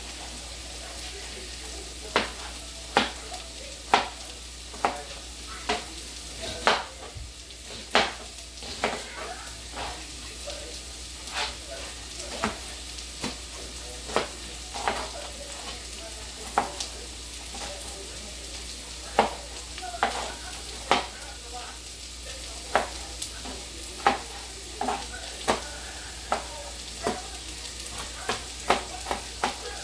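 Vegetables sizzling in a frying pan as they are stirred, with a utensil clicking and knocking against the pan about once a second.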